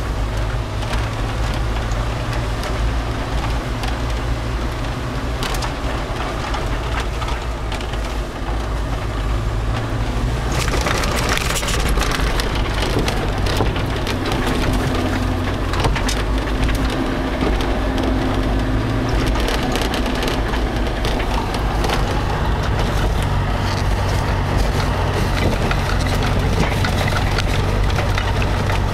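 Steyr-Daimler-Puch G off-roader's engine running with a steady low hum under a constant noisy rush of storm wind and rain on the vehicle. The noise swells briefly about ten seconds in.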